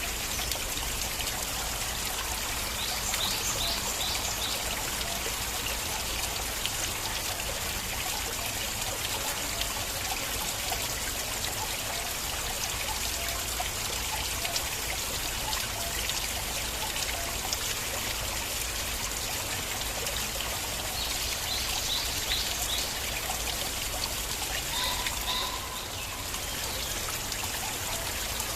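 Stream water flowing and trickling steadily, with a few short high chirps about three seconds in and again after twenty seconds.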